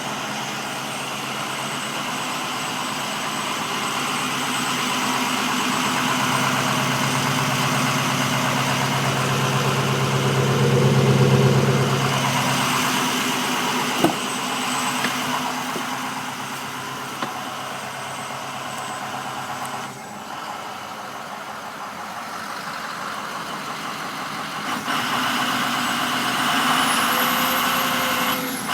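International VT365 turbo-diesel V8 at idle, with the high, steady whistle of its Garrett variable-geometry turbocharger over the engine note. The engine swells louder for several seconds partway through, then settles back to idle. Near the end a high whistle rises and falls.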